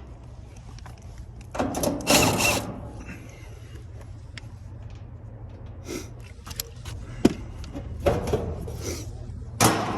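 Hand-tool and metal handling noise on an air-conditioner unit being opened: a scraping rustle about two seconds in, then scattered clicks and knocks, with one sharp click a little after seven seconds, over a low steady hum.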